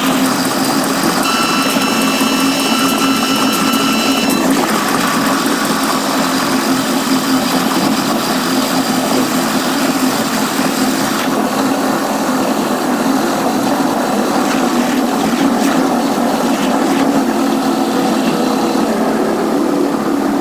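Steady running noise of a Caltrain bilevel gallery train moving along the track, with a brief cluster of high steady tones from about a second in that stops after about three seconds.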